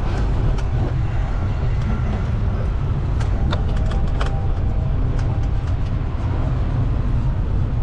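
Street and traffic noise heard from a moving bicycle: a steady low rumble, with a few sharp clicks near the middle.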